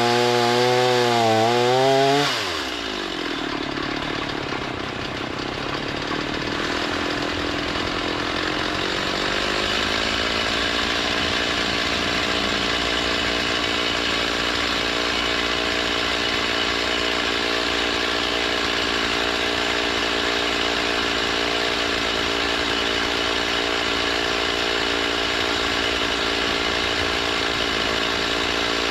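Gas-engine saw milling lumber. The engine runs with a wavering pitch, drops sharply about two seconds in, then climbs back between about seven and ten seconds in and settles into a steady run.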